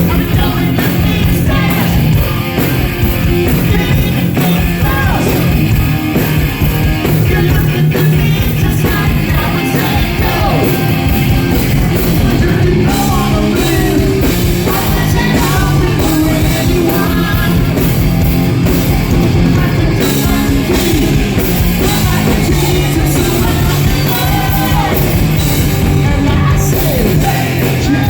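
Live hard rock band performing at full volume: distorted electric guitars, bass and drums with a male lead vocal singing and yelling over them.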